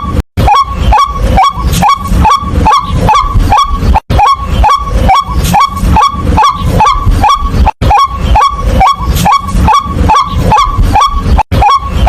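White-breasted waterhen giving its loud, monotonous 'kwak' call, about three harsh calls a second repeated on and on, broken by a short gap about every four seconds.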